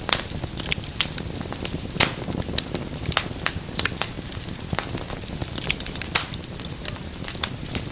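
Fire crackling in a fireplace: irregular sharp snaps and pops, a few louder than the rest, over a low steady rumble of burning.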